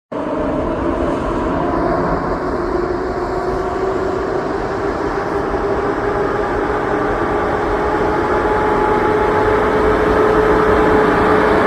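A train running through a railway station: a steady, loud rumble of wheels on rails with a hum that rises slightly in pitch over the first few seconds and then holds, growing a little louder toward the end.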